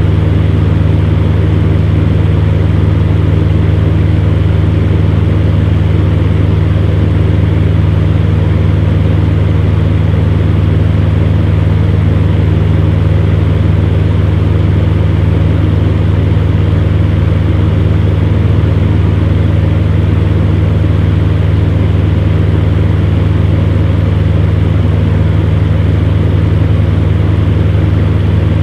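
Electric fan heater running steadily: a constant low hum under an even rush of blown air.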